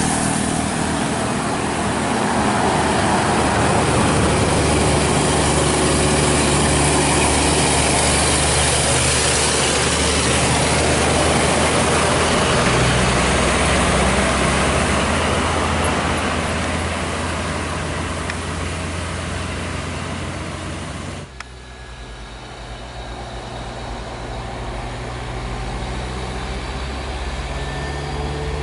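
Heavy-laden diesel trucks running slowly, their engines droning steadily under load with road and tyre noise. The noise drops suddenly about two-thirds of the way through, then slowly rises again as another truck approaches.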